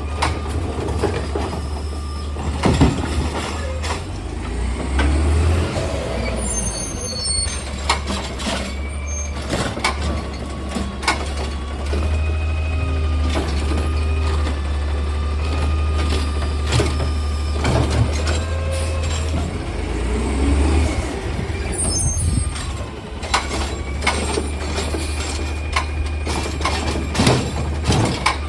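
Recycling truck running with a steady low engine hum while its mechanism lifts and empties a recycling cart: hydraulic whining that rises and falls, clanks and bangs, and hisses of the air brakes.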